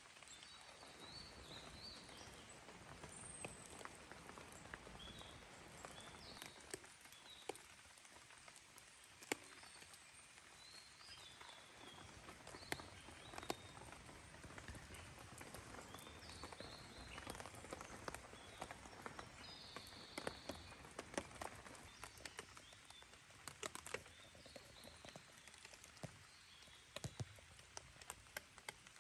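Open wood campfire crackling quietly, with scattered sharp pops, while small birds give short high chirps now and then.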